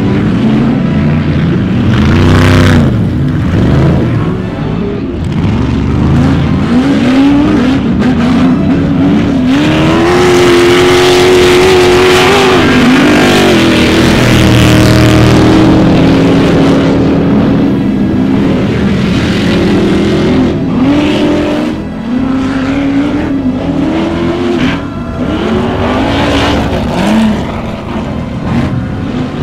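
Ultra4 off-road race cars' engines revving hard, rising and falling in pitch again and again as they are driven over the track, with a longer high-revving stretch around the middle.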